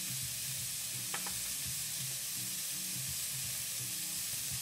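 Chopped onions, tomatoes and garlic sizzling steadily in hot olive oil in a frying pan as they sauté.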